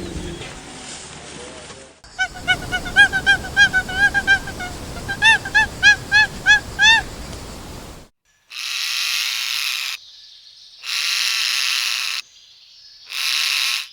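A bird giving a rapid series of short, pitched honking calls, about two to three a second for several seconds, followed by three long hissing bursts with brief gaps between them.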